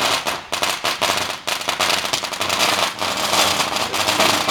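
Fireworks crackling: a dense, unbroken stream of rapid small bangs and pops.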